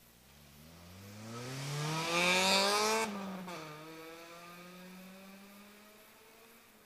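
Honda Civic Type-R EP3's four-cylinder engine revving hard under acceleration, its pitch climbing for about three seconds. The revs then drop suddenly and the engine settles into a steadier, lower note that fades away.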